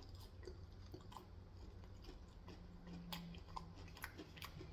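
Faint close-up chewing and mouth sounds: irregular small wet clicks of someone eating saucy instant noodles, over a low steady hum.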